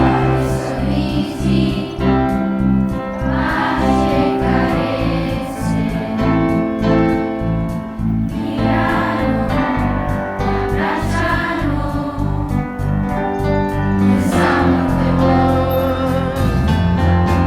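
Choir singing a song over instrumental accompaniment.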